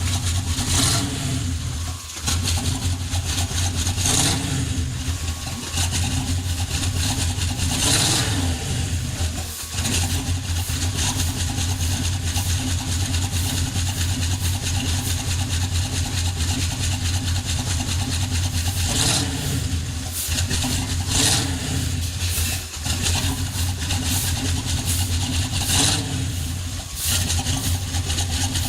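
Chevrolet 350 small-block V8 idling steadily, with a few short throttle blips every several seconds.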